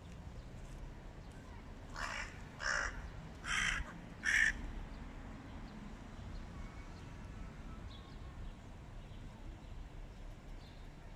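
Hooded crow cawing four times in quick succession, harsh short calls, the last one the loudest.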